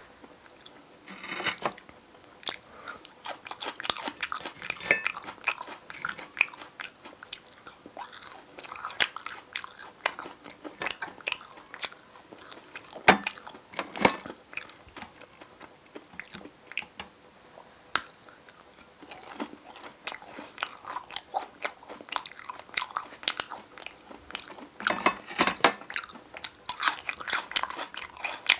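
Close-miked chewing and crunching of fried food, a dense run of small crackles and bites. A few sharper clicks come from the metal fork striking the glass bowl as he picks up more pieces.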